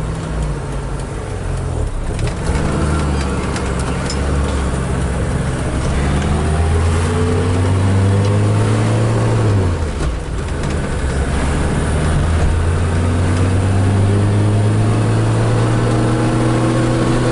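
1976 BMW 2002's four-cylinder engine pulling the car up through the gears. Its pitch climbs steadily, drops sharply at a gear change about ten seconds in, climbs again, and starts to drop for the next shift at the very end.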